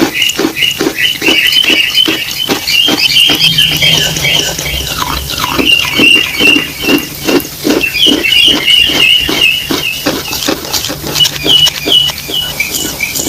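Someone chewing wet chalk mixed with clay paste, in a steady rhythm of about three chews a second.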